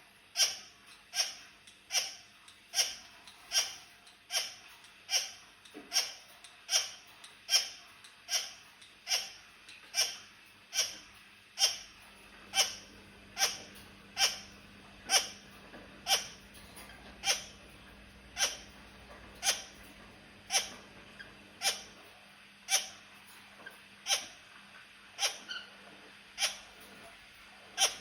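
A kakariki parakeet giving short, sharp calls, one about every 0.8 seconds in a steady rhythm.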